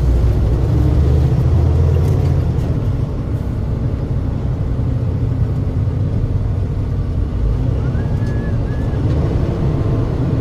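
Semi-truck engine and road noise heard inside the cab while driving, a steady low rumble.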